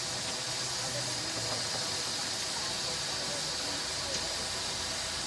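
Steady hiss of steam from miniature steam traction engines in steam.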